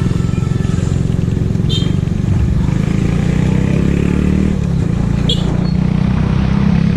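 Motorcycle engines running with a steady low rumble, with two short high chirps about two and five seconds in.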